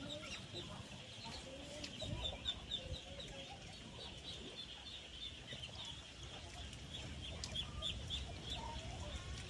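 Chickens clucking, with many short, high chirps repeating throughout.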